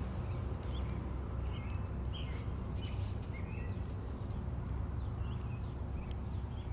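Small birds chirping with short, repeated calls over a steady low rumble, with a few sharp clicks in between.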